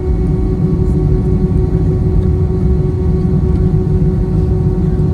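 Airbus A321 engines and airframe heard from inside the cabin during the takeoff: a loud, steady low rumble with a steady hum running through it.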